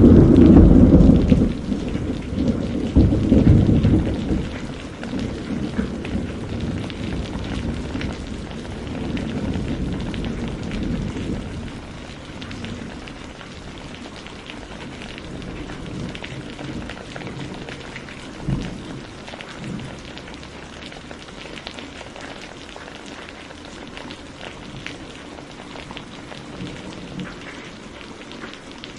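Heavy rain falling steadily, with a loud clap of thunder at the start and a second peal about three seconds in that rolls off into a low rumble over the next several seconds. A brief low thump of thunder comes later.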